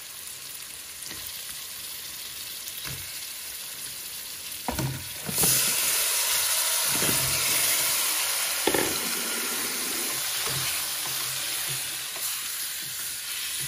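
Spiced oil sizzling in an aluminium pot as wet chunks of Chinese pumpkin are tipped in. About five seconds in, a bowlful of pieces goes in and the sizzle jumps louder and stays up, with a few knocks of pieces and the wooden spatula against the pot.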